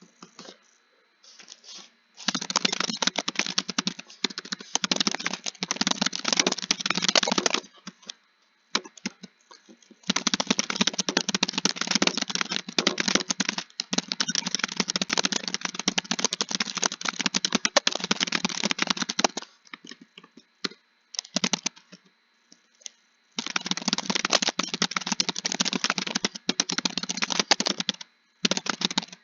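Computer keyboard being typed on quickly: three long runs of rapid keystrokes separated by short pauses with only a few scattered key clicks.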